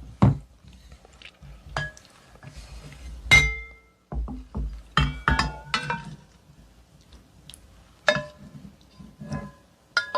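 A spoon clinking against a soup bowl, about eight clinks, each ringing briefly. The loudest rings about three seconds in, and a quick run of clinks comes around five to six seconds.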